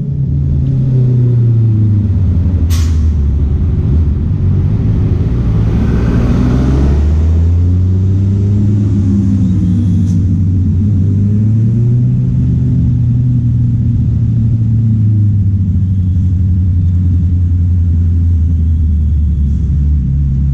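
Honda CB650R's inline-four engine revving up and falling back several times, its exhaust note rising and dropping in pitch. A sharp crack sounds about three seconds in.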